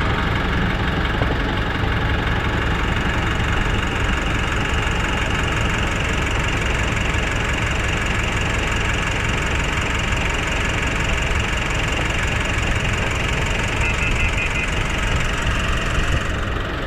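Nissan NV350 van's diesel engine idling steadily with a diesel knock. The idle holds even and no longer hunts up and down, a sign that the rough idle has been cured.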